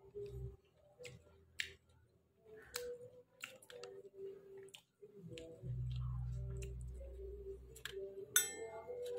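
Close-up mouth sounds of a man chewing roasted pork: irregular wet smacks and clicks. A low rumble lasts about a second in the middle.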